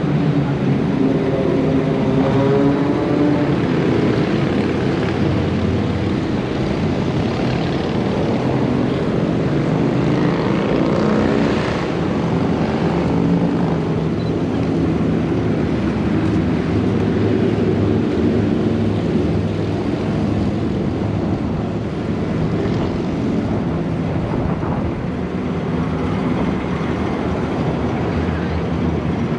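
Car engine running, a steady low drone whose pitch wavers slightly with small changes in revs.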